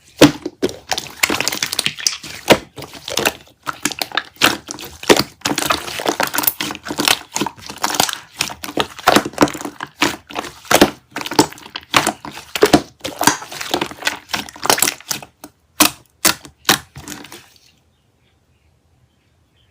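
Pink slime being squished and worked, giving a dense run of crackly pops and clicks that thins to a few single pops and stops shortly before the end.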